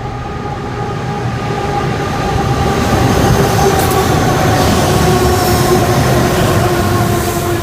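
Diesel locomotives at the head of a freight train passing close by: a steady engine drone over the rumble of the wheels, growing louder over the first few seconds and then holding.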